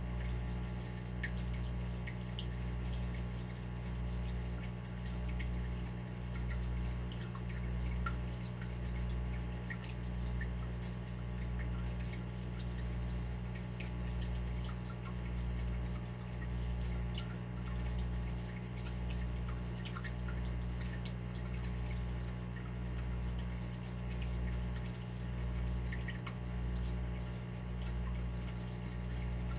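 Water dripping in small, scattered drops over a steady low hum that swells and fades about once a second.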